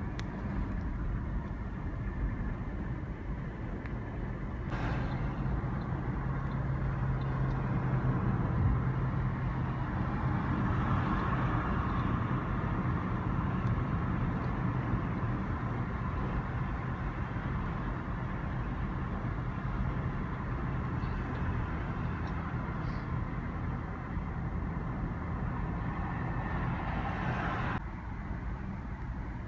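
Car driving on a city road: steady tyre and road noise with a low engine hum, changing abruptly about five seconds in and again near the end.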